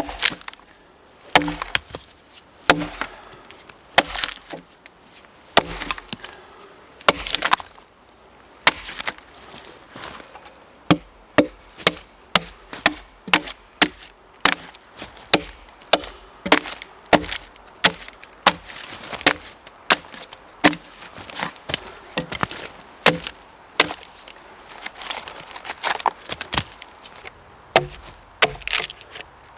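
An axe chopping wood: a series of sharp blade strikes into wood. They come spaced out and irregular at first, then settle into a quicker, steady rhythm of chops from about ten seconds in.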